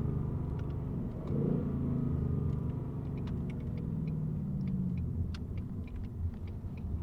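Ford 5.0 V8 engine running at low revs with a deep, steady note and a brief swell in revs about a second and a half in.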